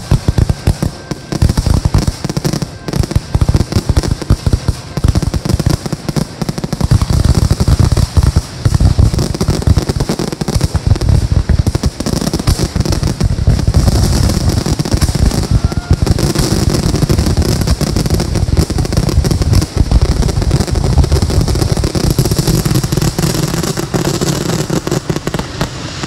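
Finale of a fireworks display: a dense, continuous barrage of aerial shell bursts and launches, the bangs overlapping with crackling. It cuts back sharply right at the end.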